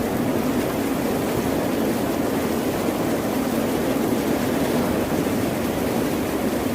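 Steady, even rush of ocean surf, with no single wave breaking out from the wash.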